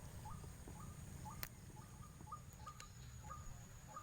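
A bird calling in a regular series of short, rising notes, about three a second, over a low wind rumble. One sharp click about a second and a half in.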